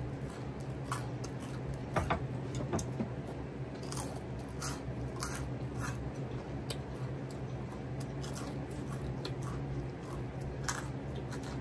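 A person chewing a mouthful of chicken-crust Caesar salad pizza, with scattered wet mouth clicks and smacks over a low steady hum.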